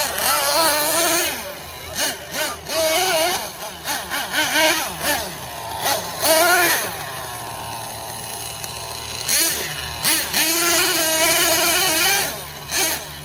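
Team Associated MGT 8.0 monster truck's nitro engine revving in repeated throttle bursts, its pitch rising and falling, and easing back to a steadier drone for a couple of seconds past the middle.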